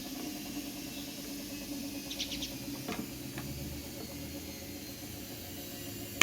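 Faint clicks and taps of small plastic parts being handled and pressed together as a Hall sensor is fitted to a washing machine motor's stator, over a steady low hum.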